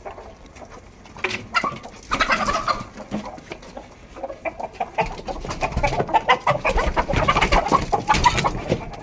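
Chickens clucking, a flock calling in quick short notes, getting busier and louder from about halfway through.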